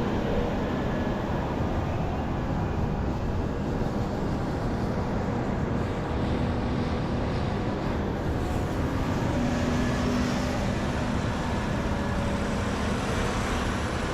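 Heavy diesel earthmoving machinery running steadily: a large excavator working with haul trucks, a constant engine drone over a dense rumble.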